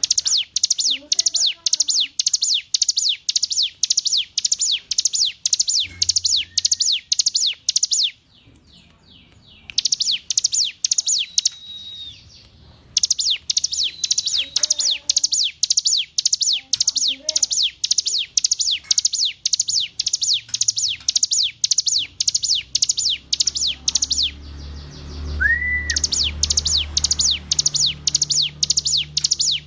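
Ciblek gunung (a mountain prinia) singing a fast, steady string of high, sharp notes, about three a second, each dropping in pitch. The song comes in long runs broken by a few short pauses.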